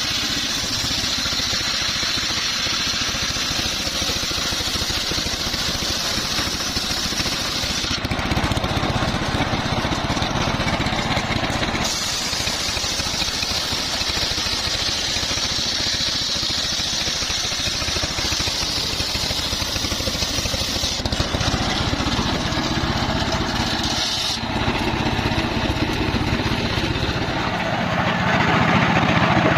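The engine of a portable circular sawmill running steadily. Its sound shifts abruptly several times, about 8, 12, 21 and 24 seconds in, and grows louder near the end.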